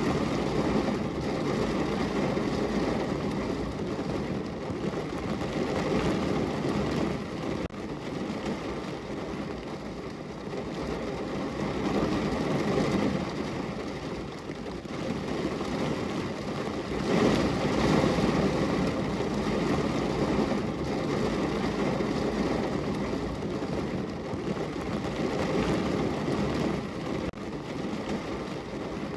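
Rain falling steadily on a window: an even rushing noise, heaviest in the low range, that swells about twelve seconds in and again a few seconds later.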